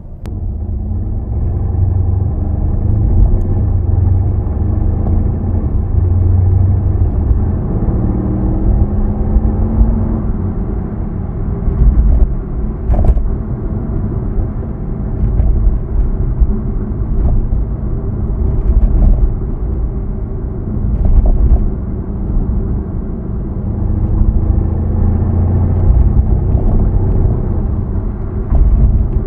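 Mercedes-AMG C63 S (W205) 4.0-litre twin-turbo V8 on its stock exhaust, running with a low rumble while driving. Its engine note rises as the car accelerates about eight seconds in.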